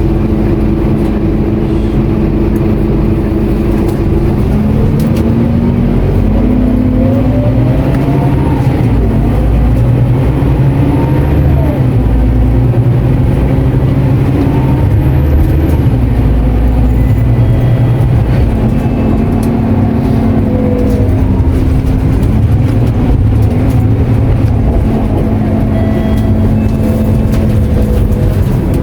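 Scania K230UB Euro IV city bus's diesel engine heard from inside the bus, running steadily at first, then pulling away with its pitch rising and stepping through gear changes, under constant low road rumble.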